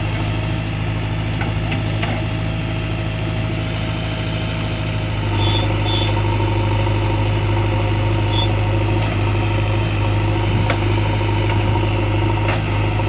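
A vehicle's engine running steadily at idle, with a constant low hum; about five seconds in it gets a little louder and a higher steady tone joins it.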